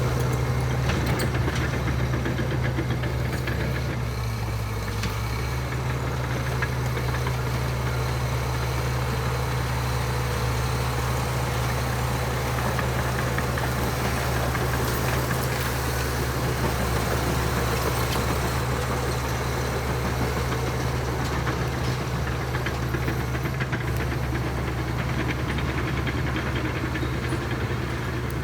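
Diesel engine of a Komatsu D61EX bulldozer running steadily with an even, low drone, dipping briefly about four seconds in.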